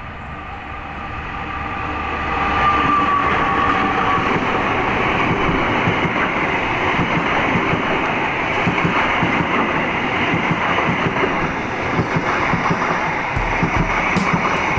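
Siliwangi passenger train passing close by, its noise building over the first couple of seconds and then holding as a steady rumble of wheels on rail with rapid clatter.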